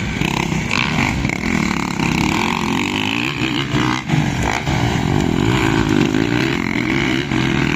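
Motocross bike engines revving, their pitch rising and falling repeatedly as the riders work the throttle and shift.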